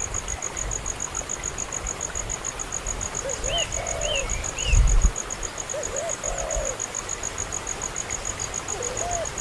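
A dove cooing in short groups of low notes about every three seconds, over a cricket's steady fast pulsing chirp. Three brief high bird chirps come a little before halfway, and there is a dull thump about halfway through.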